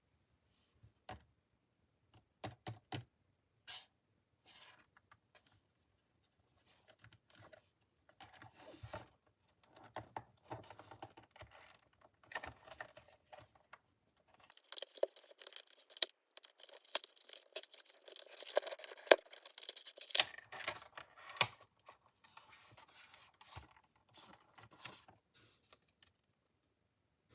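Packaging of a speed cube being handled and opened: scattered clicks and taps, then a denser stretch of crinkling, tearing and sharp clicks about halfway through that dies down near the end.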